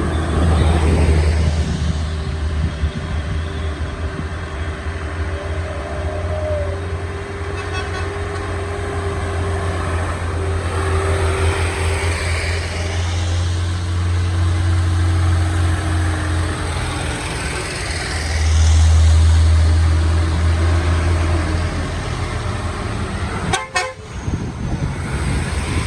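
Heavy trucks' engines running on a steep uphill road, a steady low rumble that swells about two-thirds of the way in, with a vehicle horn sounding.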